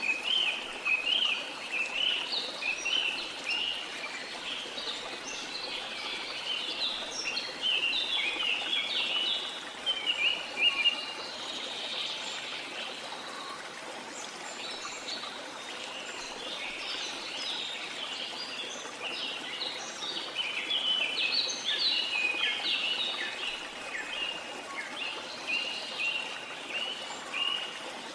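Birds chirping and singing in busy, overlapping bouts of short high notes, over the steady rush of flowing water.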